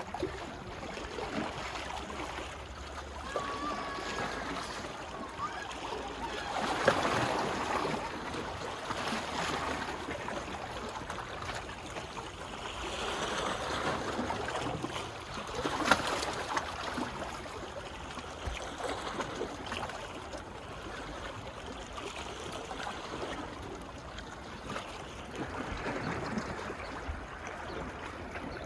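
Small waves lapping and washing on a beach, swelling in loudness every several seconds, with the trickle of water running back.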